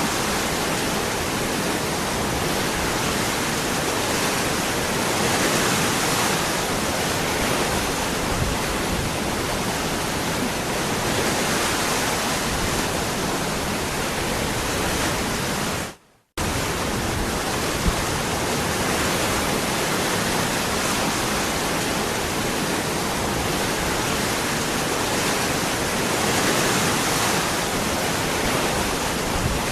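Waterfall rushing steadily, a dense even roar of falling water. The sound drops out for a split second just past the middle, then resumes.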